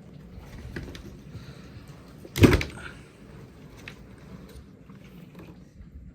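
Small clicks and knocks of handling parts on the underside of a dishwasher, with one loud sharp knock about two and a half seconds in.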